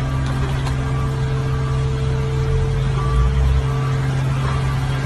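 A car's engine running with a steady, even drone and a low rumble underneath, with no change in pitch.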